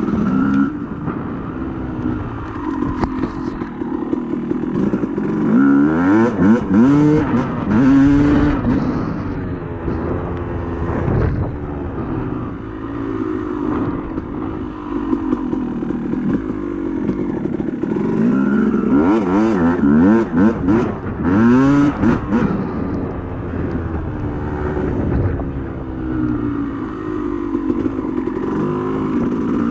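Yamaha YZ250 two-stroke single-cylinder dirt bike engine under riding load, revving up and down repeatedly in pitch as the throttle is worked, with occasional short knocks.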